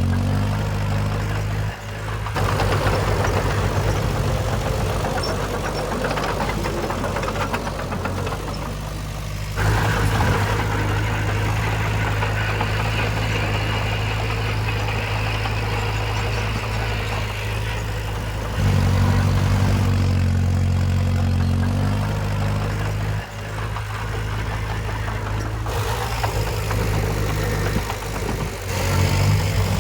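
Diesel engine of heavy earthmoving machinery running steadily at a low pitch. Its sound changes abruptly several times, getting louder or quieter in steps.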